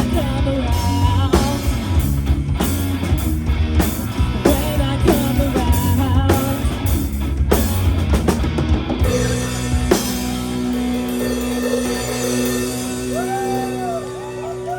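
Live rock band playing amplified drums, bass and electric guitar with a steady beat. About ten seconds in the drums stop and held notes with bending pitches ring on as the song winds down.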